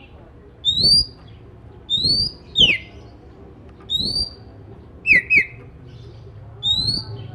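Oriental magpie-robin (kacer) giving short, loud whistled calls about once a second. Some calls slide upward and others sweep sharply downward, repeated in a steady pattern.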